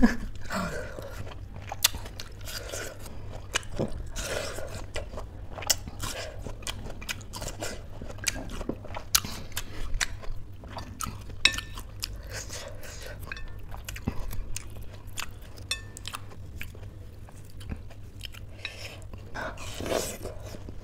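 Biting into and chewing fresh watermelon: crisp crunches and wet mouth clicks scattered throughout, with a louder bite near the end.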